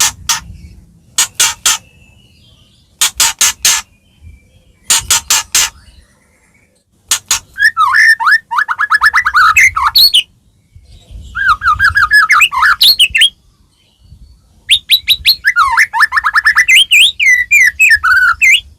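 White-rumped shama singing: in the first few seconds it gives short clusters of three or four sharp clicking notes, then three long phrases of rapid trills and sliding, whistled warbles.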